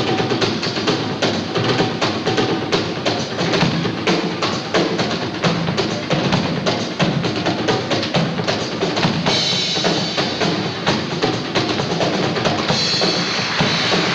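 Drum kit played in a fast solo: rapid strokes on snare, toms and bass drum. Cymbals crash about nine seconds in, and cymbals wash on from near the end.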